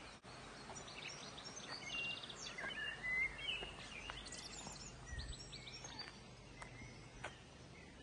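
Small birds chirping and singing on and off, with a short rapid trill about two seconds in, over faint outdoor background noise.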